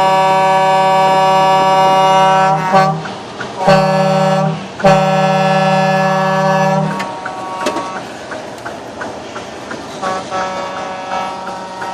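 Truck air horns sounding a loud multi-note chord: one long blast that breaks off a little under three seconds in, a short blast near four seconds, and another long blast ending about seven seconds in, followed by quieter background with faint horn toots.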